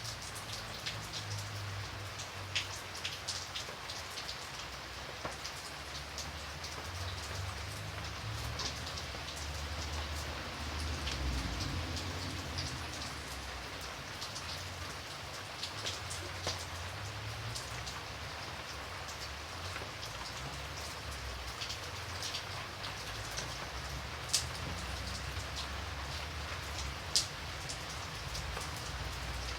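Steady rain falling, with many individual drops ticking sharply on a surface over an even hiss and a low rumble underneath. Two drop hits stand out louder near the end.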